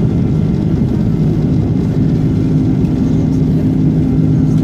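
Airbus A330-300 airliner cabin noise: the steady drone of the jet engines and rushing air, with a low hum that holds one pitch.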